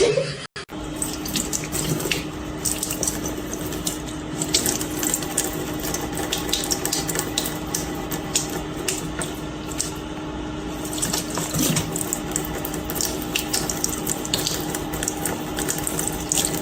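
Water running and splashing, with many small clicks and a faint steady hum underneath.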